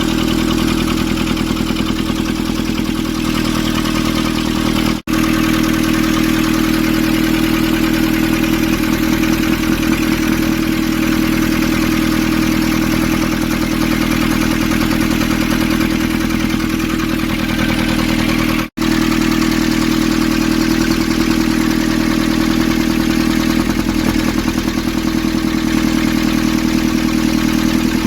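Nissan ZD30 four-cylinder diesel engine idling steadily. The sound drops out briefly twice, about 5 and 19 seconds in.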